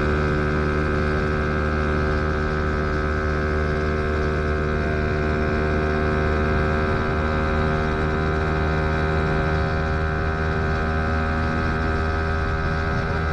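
Fantic XMF 125's single-cylinder four-stroke engine running at steady revs, its pitch holding level throughout.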